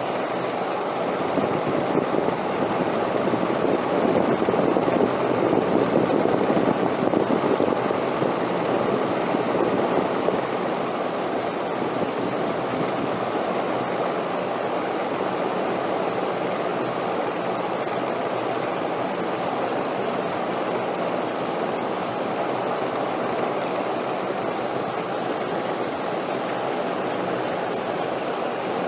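Steady wind noise, swelling slightly a few seconds in and then holding even.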